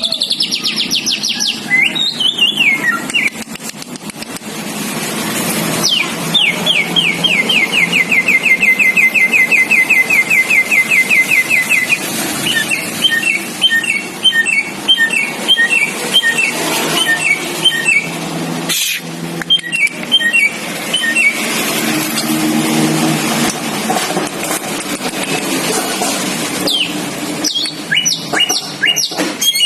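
Samyong bird singing: a long fast trill of repeated notes sliding slightly downward, then a run of short two-note whistled phrases that comes back near the end, over a steady low hum. A single sharp click cuts through about two-thirds of the way in.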